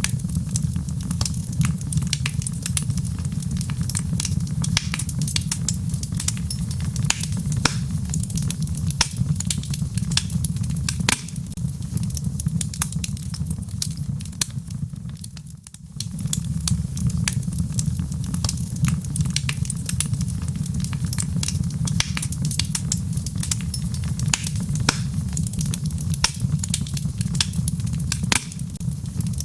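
Wood logs burning in a fireplace: a steady low rumble of the fire with dense crackling and popping. The sound briefly drops away for a moment about halfway through, then resumes as before.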